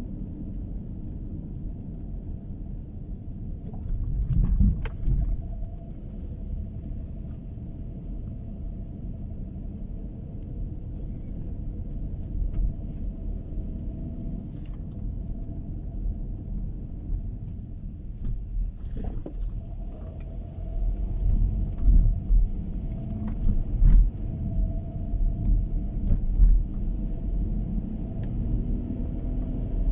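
Low, steady rumble of a car on the move, swelling louder a few times, with a few light clicks and knocks.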